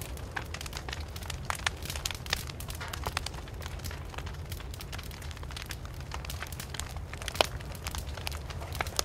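Wood fire burning and crackling, with irregular sharp snaps and pops over a steady low roar of the flames, one pop louder than the rest about seven seconds in.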